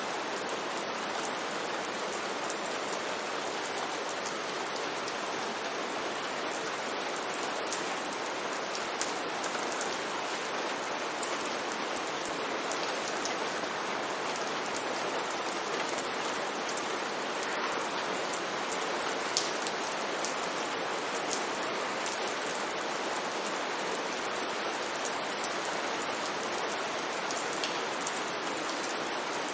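Steady rain falling on a street, a constant hiss with scattered individual drops ticking through it.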